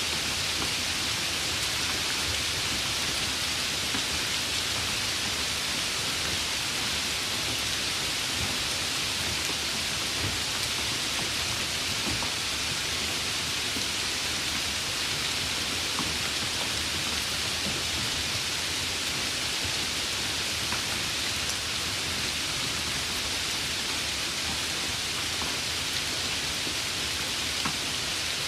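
Steady, even rain hiss with scattered faint drop ticks.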